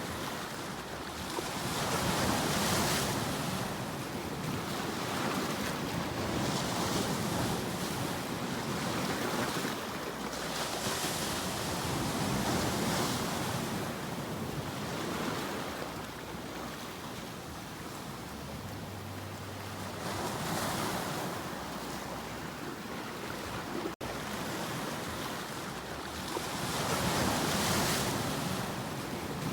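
Ocean surf: waves breaking and washing onto a shore, a continuous rush that swells and eases every few seconds.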